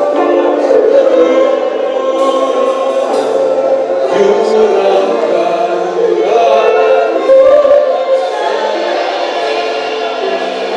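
Church worship music: voices singing a slow worship song with instrumental backing.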